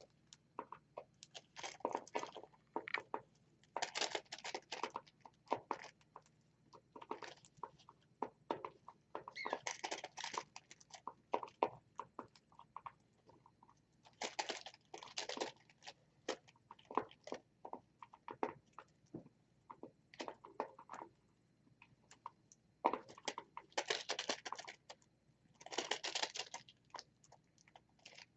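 Pet birds pecking and crunching at a dish of mixed vegetables and seeds: irregular quick clicks and short bursts of crunching.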